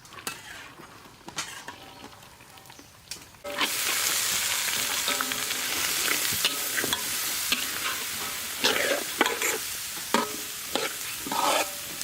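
A metal utensil clicking and scraping in a pan; then, about three and a half seconds in, a sudden loud sizzle as vegetables go into the hot oil and fried garlic. Stirring and spatula scrapes continue over the steady sizzle.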